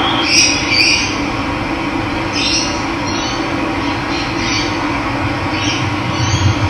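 Steady rush of running water with a bird giving short calls every second or so over it.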